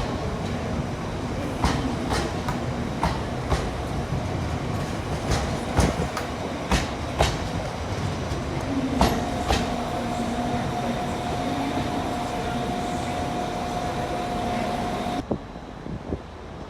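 Train running along the track, with irregular clacks of the wheels over rail joints. A steady high squeal joins about halfway through. Near the end the sound cuts off abruptly to a quieter wind-like rumble.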